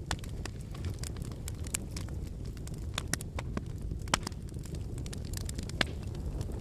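Wood campfire burning: a steady low rumble of flames with irregular sharp crackles and pops from the logs, two louder pops about four and six seconds in.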